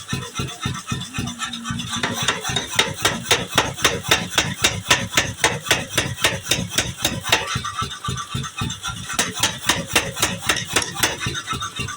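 Mechanical power hammer striking a piece of plow steel on the anvil in a fast, even run of blows, about five a second, with a metallic ring. The blows are heaviest a few seconds in.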